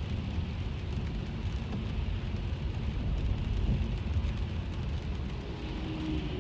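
Rain falling on a car and steady road rumble, heard from inside the moving car's cabin, with faint drop ticks over a continuous hiss.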